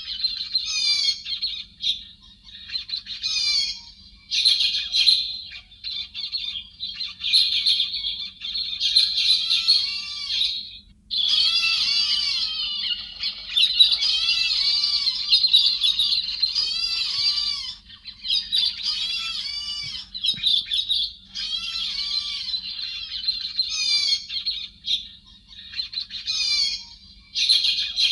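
Recorded song of a thrush the Vietnamese call héc xoan: dense phrases of quick up-and-down warbled and chattering notes, in bursts lasting from under a second to several seconds with short gaps between them. A faint steady low hum runs under the song.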